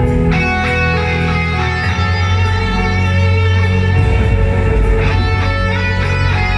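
Live band playing an instrumental passage without vocals: guitar over a bass line, with a steady beat ticking on the cymbals.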